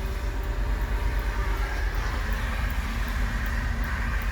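2000 GMC Blue Bird CV200 school bus idling: a steady low engine rumble with no changes.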